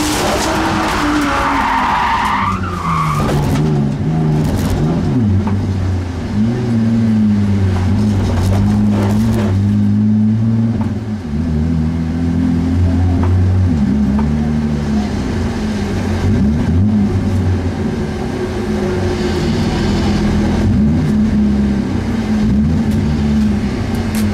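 Engine of a BMW E36 folkrace car heard from inside the cabin, its pitch rising and falling as it revs up and drops through the gears on a loose gravel track. In the first few seconds there is a burst of tyre and gravel noise as the car slides.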